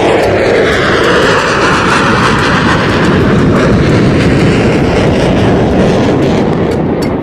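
Airplane passing by: a loud, steady rushing noise whose tone slowly sweeps down and back up.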